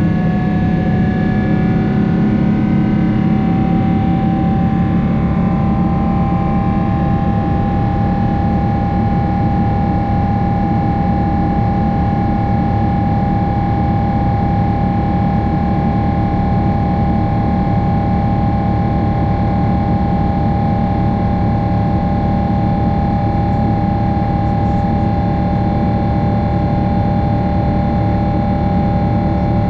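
Boeing 777-300 jet engines heard inside the cabin at a window seat: a loud, steady rush with several whining tones that rise slightly in pitch over the first few seconds and then hold level.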